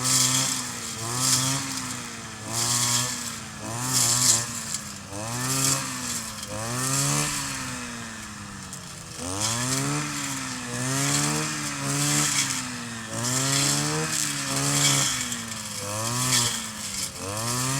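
Kioritz 260 two-stroke brush cutter engine revved over and over, its pitch climbing and falling back about once every second and a half, with a short spell at low speed around the middle.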